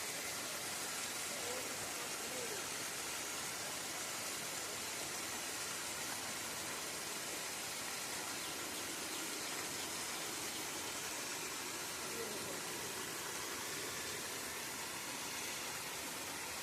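A steady, even rushing hiss with no breaks, and faint voices now and then.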